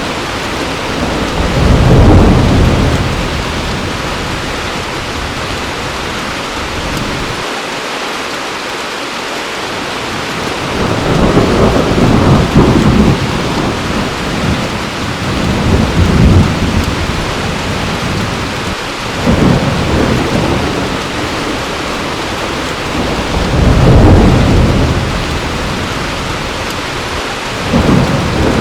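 Heavy rain falling steadily, with rolling thunder rumbling up and fading about six times: a couple of seconds in, twice near the middle, then more often toward the end.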